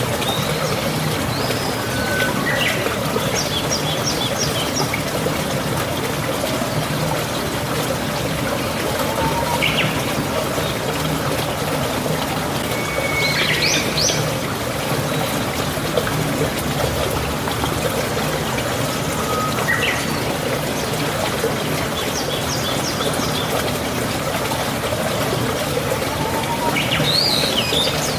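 Steady rush of flowing water, with small birds chirping briefly about five times over it.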